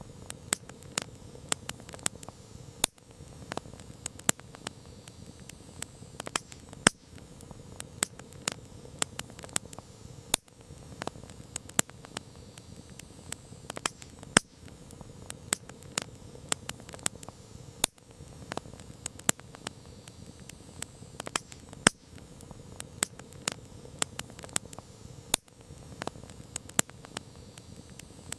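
Campfire burning, with irregular sharp crackles and pops, a few each second, over a soft steady hiss.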